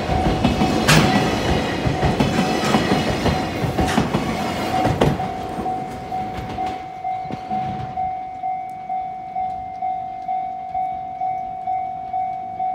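Freight container wagons rolling past close by, wheels clacking and knocking over rail joints, the noise fading after about six seconds as the end of the train moves away. A level-crossing warning bell rings throughout at about two strokes a second, left on its own near the end.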